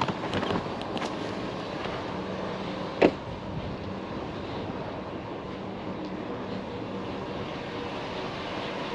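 Steady hum of a vehicle engine idling, with a single sharp knock about three seconds in.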